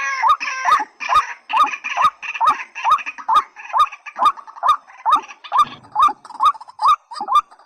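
Rail calls, such as those of the white-breasted waterhen: a short rising call repeated evenly about twice a second. A second, fuller call overlaps it in the first second or so.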